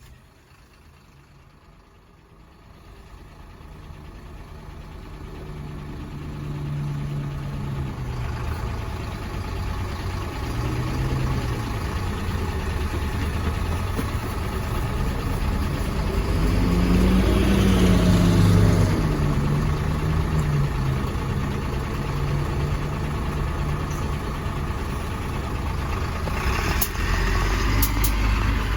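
City bus diesel engine running just after start-up, growing louder over the first few seconds. About two-thirds of the way through it revs up briefly and drops back to a steady idle. A few short clicks come near the end.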